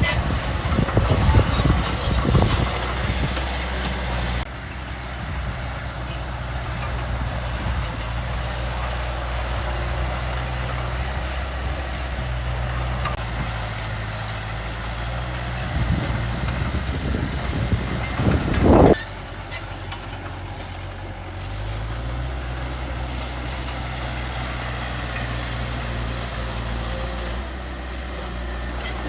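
Heavy diesel machinery engine running steadily, with rough loud bursts in the first couple of seconds and again about two-thirds through, the second one cutting off suddenly; the engine note shifts a little soon after.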